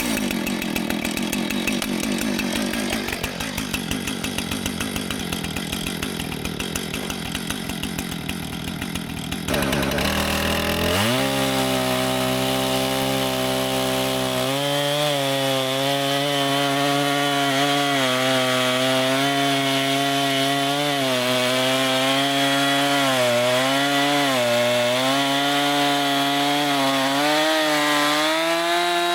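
Husqvarna Rancher 455 two-stroke chainsaw cutting through a cedar log. About ten seconds in, the sound changes to a steady high engine note that wavers slightly as the chain works through the wood, and the revs drop away right at the end.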